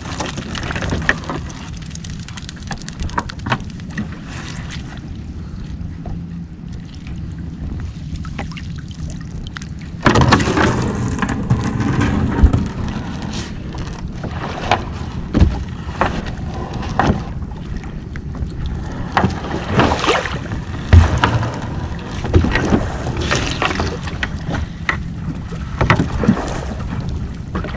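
A small fishing boat's engine runs steadily while a crab gill net is hauled aboard, with irregular knocks and clatter from the net-hauling. The knocking and general noise grow louder from about ten seconds in.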